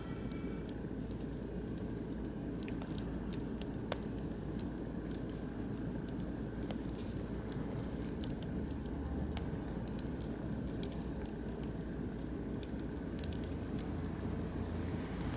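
Oak and beech wood fire crackling, with a steady run of sharp pops and snaps over a low rumble, one louder pop about four seconds in.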